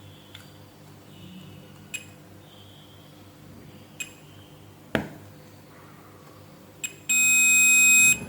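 Multimeter probe tips clicking lightly against a MOSFET's metal pins a few times, then the meter's continuity buzzer sounding one steady beep for about a second near the end.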